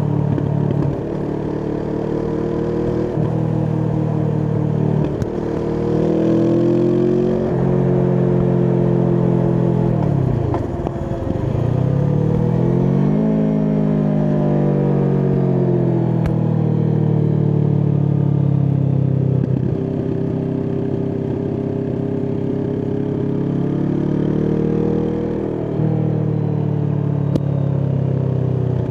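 Kawasaki Vulcan S 649 cc parallel-twin engine through an Arrow aftermarket exhaust, under way. It pulls up through the gears in steps, then the revs drop right down about ten seconds in as the bike slows, and it pulls away again to a steady cruise, with another dip and rise near the end.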